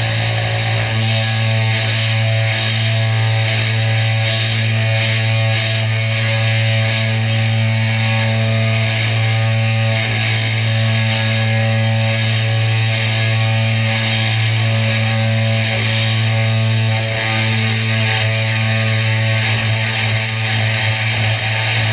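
Small CNC 3018 router's spindle motor running steadily while milling Finnpappe board, a constant hum with a hissing cutting noise above it.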